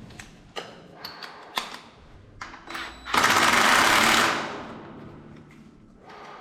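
Sharp metal knocks and clicks of repair work, then a loud burst of a rapid, rattling power tool lasting about a second before it winds down.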